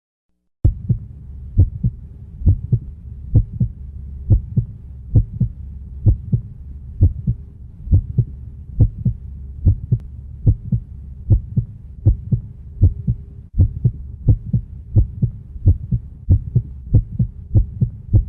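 A heartbeat sound effect: low double thumps at about one beat a second over a steady low drone, starting about half a second in, as the intro of a song.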